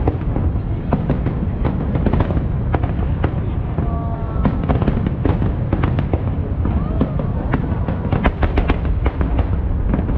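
Aerial fireworks going off in quick succession: a continuous deep rumble of bursts with many sharp bangs and crackles on top.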